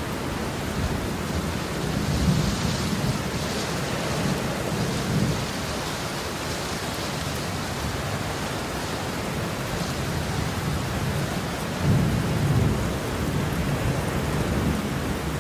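Heavy rain falling steadily, with low rolls of thunder rumbling in twice, about two seconds in and again about twelve seconds in.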